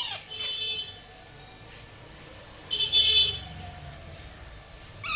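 Baby Alexandrine parakeet calling: a few short, high-pitched calls, falling in pitch at the start and again at the end, with the loudest call about three seconds in.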